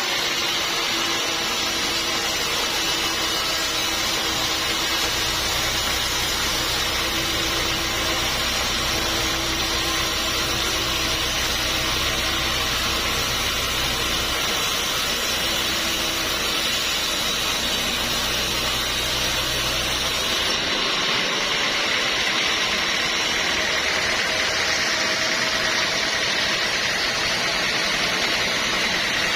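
Sawmill machinery running steadily with a continuous mechanical hum. About 20 seconds in the low rumble drops away and a higher, thinner running sound carries on.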